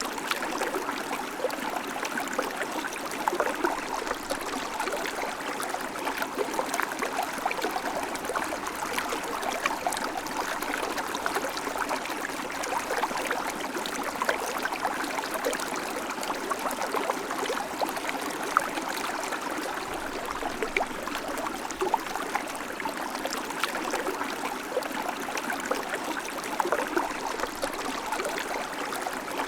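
River water flowing over stones, a steady rushing with fine splashing and gurgling.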